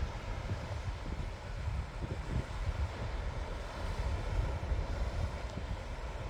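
Wind buffeting the microphone with uneven low rumbles, over a steady wash of sea surf.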